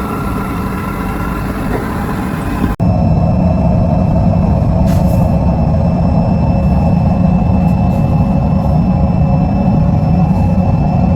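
Heavy machinery running steadily in an aluminium recycling and wire-making works. About three seconds in it cuts abruptly to a slightly louder, steady machine hum.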